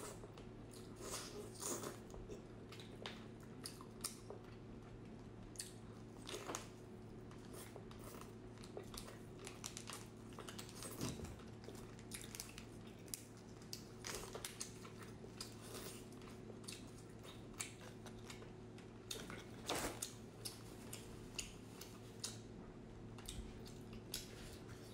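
Close-miked eating sounds of a chicken leg being bitten and chewed: irregular wet smacks and crunchy clicks, with a faint steady hum underneath.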